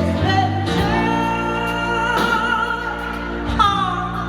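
A woman singing over a backing track, holding one long wavering note that drops in pitch near the end, with a steady bass line underneath.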